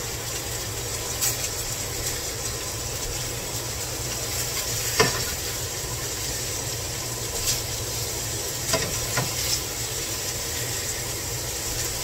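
Ground-meat-stuffed bell pepper rings sizzling steadily in a frying pan, with a few short taps and scrapes of a spatula against the pan as they are flipped.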